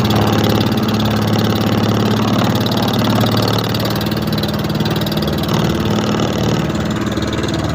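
A small fishing boat's engine running steadily at an even speed, with a low steady drone.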